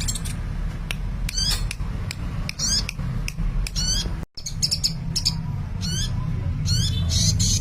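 Sunbird singing busily: a rapid stream of high, thin chirps and short falling notes. A steady low hum runs underneath, and the sound cuts out for a moment about four seconds in.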